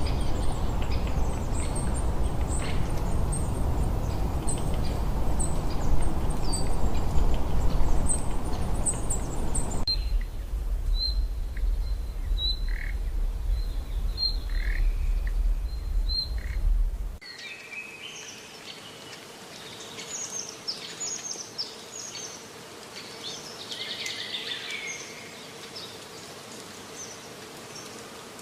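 Birds chirping and calling in short, high repeated notes. A steady low rumble of background noise lies under them for the first two thirds, and the sound changes abruptly about ten and seventeen seconds in, turning much quieter with more varied bird calls after the second change.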